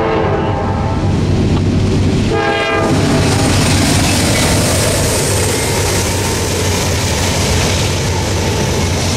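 Norfolk Southern freight train led by three GE C40-9W and C40-8W diesel locomotives sounding its air horn: one long blast that ends about a second in, then a short second blast. The locomotives then pass close by with loud engine and wheel noise, followed by the rolling rumble of the trailer-on-flatcar cars.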